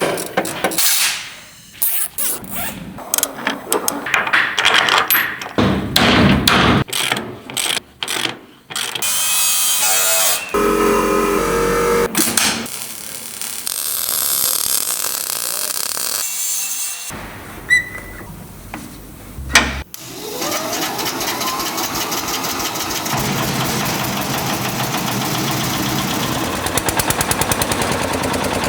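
A quick succession of workshop restoration sounds in short cuts: tool strikes, impacts and power-tool noise. About two-thirds of the way through, a steady, rapidly pulsing machine sound takes over and rises in pitch.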